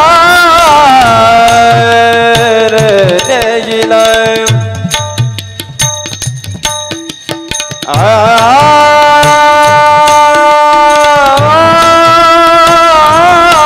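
Marathi devotional kirtan music: a singer draws out long, wavering ornamented notes over tabla and pakhawaj drumming. In the middle the voice drops back and the drums carry on alone for a few seconds, then the voice returns with another long held note.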